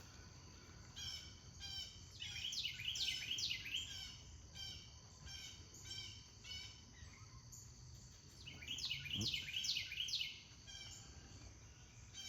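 Wild birds calling: bursts of quick, steeply down-slurred high chirps, clustered about a second in and again around nine seconds, with shorter repeated notes in between over a steady low outdoor hum.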